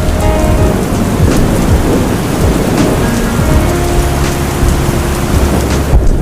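Steady heavy rain with a deep, continuous rumble of thunder beneath it.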